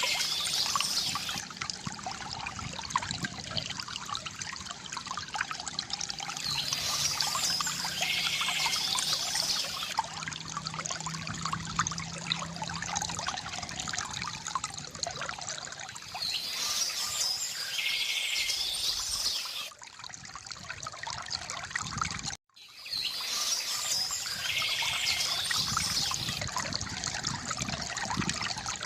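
Water trickling and pouring from a bamboo fountain, with birds chirping in short bursts every several seconds. The sound cuts out for an instant about three-quarters of the way through.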